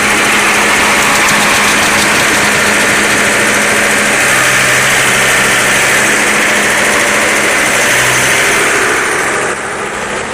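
John Deere 5225 tractor's diesel engine running steadily, driving a PTO-mounted stump grinder. A second low hum joins in about four seconds in and fades near the end, and the level drops a little shortly before the end.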